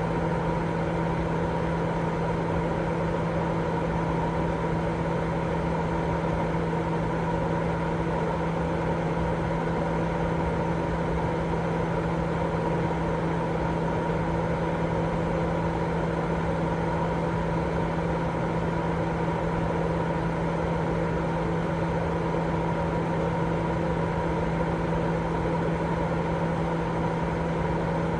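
Continuous white-noise sleep sound: an unchanging hiss with a steady low hum running through it.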